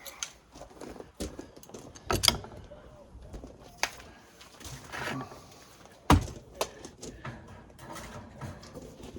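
Irregular clicks, knocks and clatter of hands working with tools and parts, with louder knocks about two and six seconds in.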